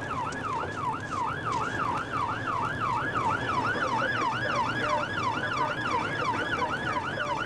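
Police patrol car's siren on a fast yelp, rising and falling about four times a second without a break, over the low running noise of the pursuing car.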